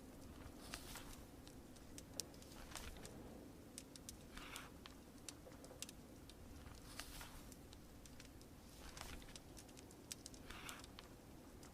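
Faint crackling fire with many sharp, irregular pops over a steady soft hiss of rain, with a soft swish every couple of seconds.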